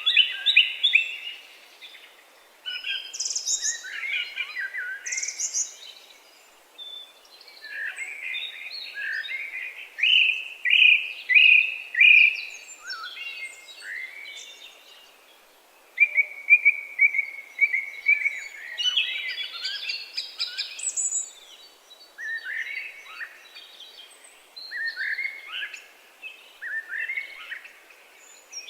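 Songbirds singing in short, varied, high-pitched phrases with brief pauses between them.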